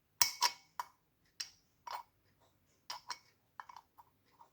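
Small metal parts of a motorcycle gearbox's shift mechanism clicking and clinking as they are handled and moved: about a dozen sharp, irregular clicks, the loudest in the first second.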